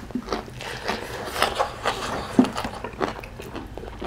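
Close-up eating sounds: chewing and wet lip smacks, coming as many short, irregular clicks.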